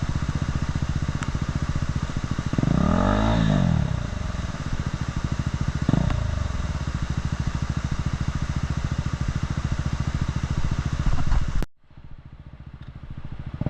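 Single-cylinder adventure motorcycle engine running, revved up and back down about three seconds in and briefly again around six seconds. The sound cuts off abruptly near the end.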